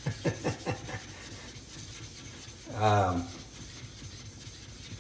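Wet blue Escher whetstone being rubbed to level it and raise a slurry: a steady scraping rub, with a quick run of short squeaks in the first second. A brief voiced sound comes about three seconds in.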